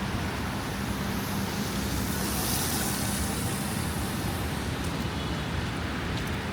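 Steady city street traffic noise, with wind rumbling on the microphone. A high hiss swells and fades about two to three seconds in.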